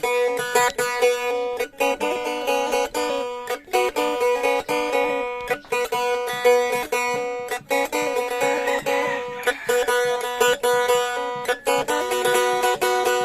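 Faglung, the Blaan two-string boat lute, played solo: a quick run of plucked melody notes over a steady drone note, with short breaks every couple of seconds.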